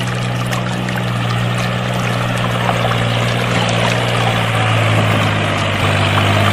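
Small electric motor of a homemade toy tractor running steadily, a low hum under a rough grinding, gritty noise with small clicks. The hum grows a little stronger about two thirds of the way in.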